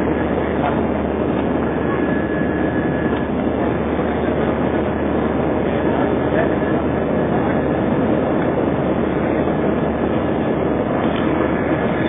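Airbus A320 cabin noise: a steady, loud rumble of the engines and rushing air, heard from inside the plane.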